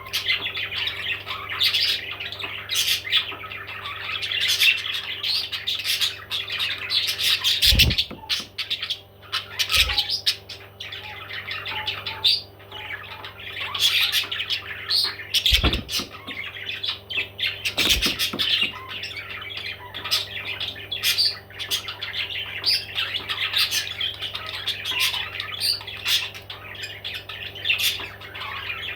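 Parrots chattering and squawking continuously in dense, overlapping calls, with a few short thumps and a steady low hum underneath.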